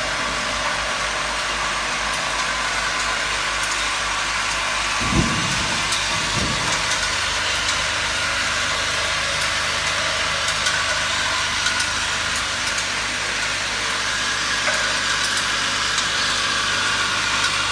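Machine running steadily with a continuous mechanical hum and hiss. There are two low thumps about five and six and a half seconds in. A deeper hum comes in after the second thump and drops away about thirteen seconds in.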